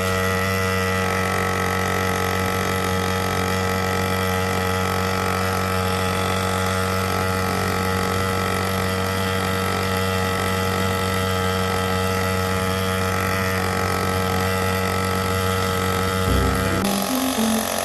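A small dirt bike's engine idling, a steady even hum with no revs, until the sound shifts about a second before the end.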